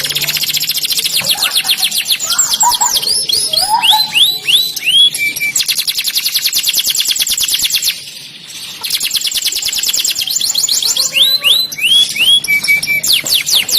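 Domestic canary singing: fast rolling trills of rapidly repeated notes, mixed with slower down-sliding whistles. The song breaks off briefly about eight seconds in, then resumes.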